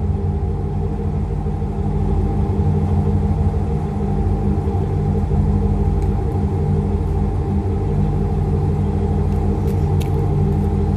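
1997 Jeep Grand Cherokee ZJ's 5.2-litre V8 idling steadily through a custom four-outlet exhaust, a low, even rumble with no revving. A few light clicks about ten seconds in.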